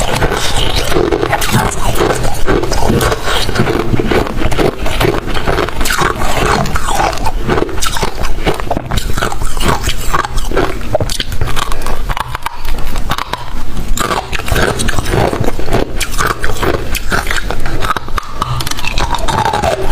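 Freezer frost being bitten and chewed close to the microphone: dense, continuous crunching.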